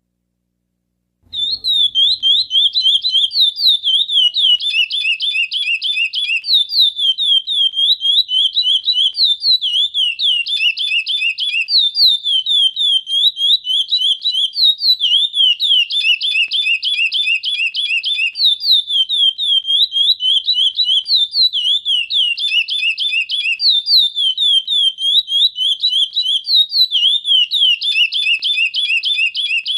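Chestnut-bellied seed finch (curió) singing: a continuous string of rapid, clear whistled notes, the song phrase repeating about every six seconds, beginning about a second in.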